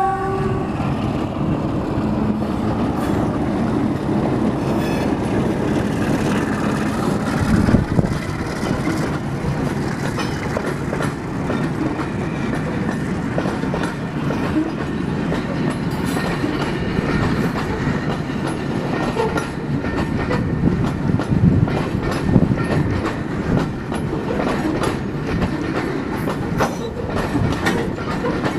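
A Pakistan Railways HBU-20 diesel-electric locomotive passes slowly at close range with its engine running. A long freight train of wagons then rolls by, its wheels clicking and knocking over the rail joints in a steady clickety-clack, with a heavy knock about eight seconds in.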